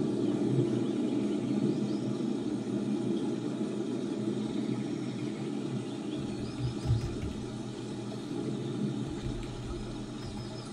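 Looped recording of rain played back on a computer: a steady wash of rain noise with a low rumble to it, slowly getting quieter.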